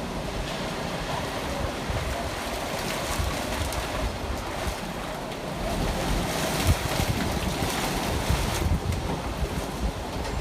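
Rain falling steadily, with wind gusting on the microphone.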